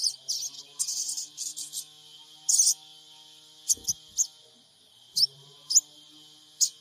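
Sogon bird calling: short, high, sharp chirps, in quick clusters for the first few seconds and then single chirps every half second or so.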